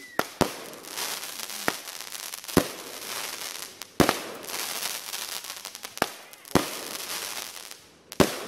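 Aerial fireworks bursting overhead: about eight sharp bangs at uneven intervals, the loudest between two and four seconds in, with crackling between the bangs.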